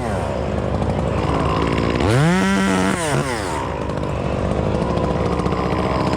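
Chainsaw engine revved up to full throttle about two seconds in, held for about a second, then let back down, over a steady engine drone.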